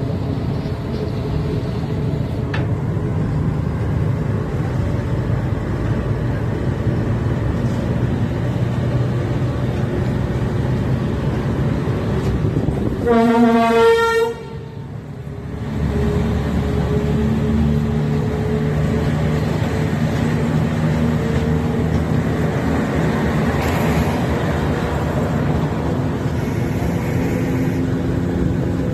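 Moving train's steady running rumble, with one locomotive horn blast of just over a second near the middle. The rumble drops briefly right after the horn, then comes back with a steady engine hum.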